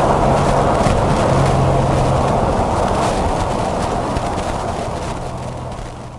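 Porsche 981 GTS flat-six engine running steadily under a heavy wash of road and wind noise, recorded in the car through a poorly mounted Rode VideoMicro, with hissing noise in the background. The sound fades out near the end.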